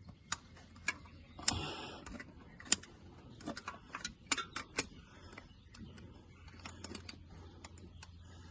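Irregular sharp metallic clicks and taps of hand tools as a cap-type oil filter wrench is fitted onto the oil filter, with a brief scraping rustle about one and a half seconds in.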